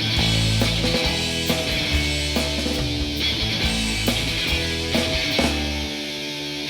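Live rock band playing an instrumental passage: electric guitar, bass and drums, with no singing.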